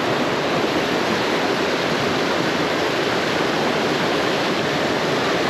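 Small rocky stream rushing over rocks into a pool: a steady, even rush of fast water.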